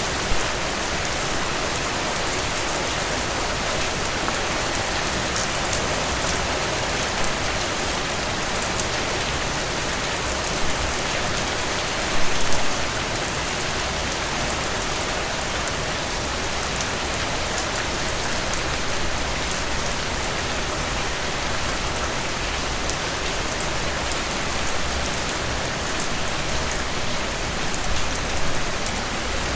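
Steady rainfall: a dense, even hiss of rain with individual drops ticking through it, and a few brief louder spots, one about twelve seconds in and another near the end.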